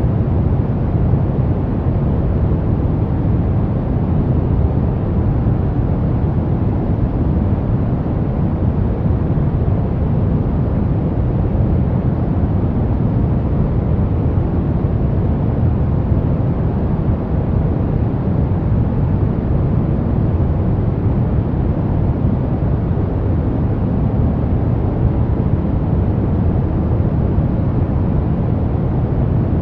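Steady pink noise, a constant even hiss and rumble weighted toward the low end, with no changes or breaks.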